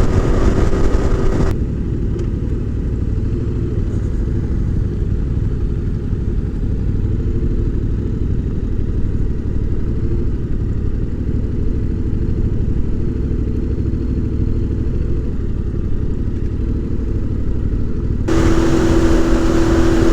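Yamaha Ténéré 700's parallel-twin engine running at a steady cruise, mixed with wind rumble. For most of the stretch the sound is muffled, with only the low rumble left; near the end it opens up again and a steady engine tone comes through clearly.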